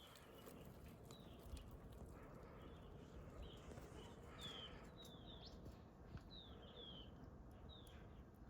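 A faint series of short, high chirps, each falling in pitch, repeated irregularly about once or twice a second over a low rumble of background noise.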